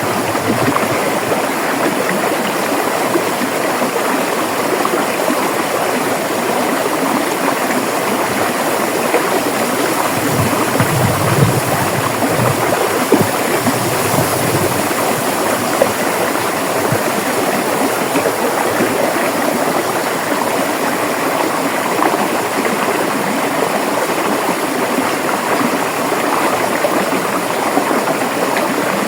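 River water flowing and splashing over rocks, a steady even rush.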